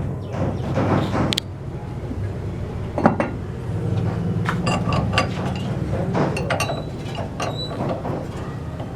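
Scattered metallic clinks and knocks of tools and parts being handled at a CNC router, over a low steady hum.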